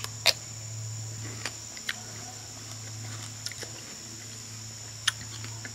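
A bite snapping through the thick, hard skin of a ripe Sikkim cucumber, followed by chewing with a few sharp crunches spread over the next few seconds.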